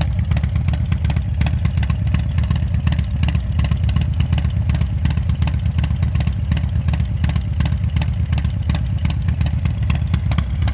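Harley-Davidson Milwaukee-Eight 114 V-twin with a Chris Rivas 464 Rocket cam idling steadily through Shark Road slip-on mufflers, heard from behind the exhaust. The exhaust pulses come in an even, repeating beat with no revving.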